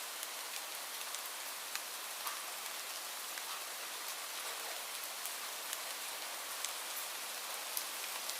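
Steady rain falling, a constant hiss with scattered close drops ticking sharply on a surface.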